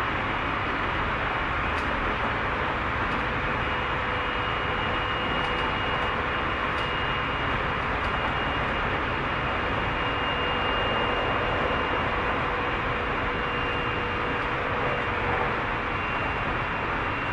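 Tobu 30000 series electric train running steadily, heard inside the car: an even rumble of wheels on rail with faint steady whining tones over it.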